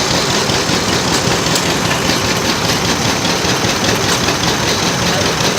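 An engine running steadily and loudly close by, with no clear changes in speed.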